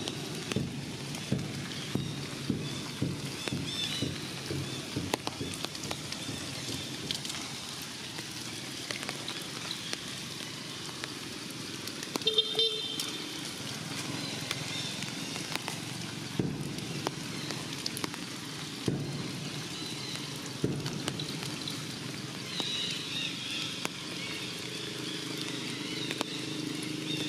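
Rain falling on forest leaves: a steady hiss with scattered drips and taps. A short high call sounds about twelve seconds in.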